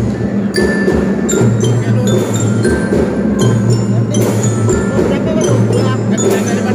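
Children's drum band playing: a glockenspiel (bell-lyra) picks out a melody in short struck notes, several a second, over drums and percussion.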